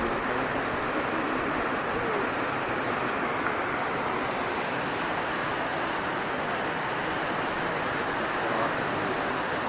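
Steady rush of a large waterfall, even and unbroken, with faint voices now and then underneath.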